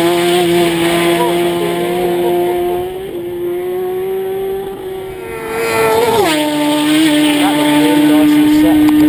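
Racing motorcycles at full throttle on a road course, going past at high speed. The engine note drops sharply in pitch as a machine passes about six seconds in, and stays loud and steady between passes.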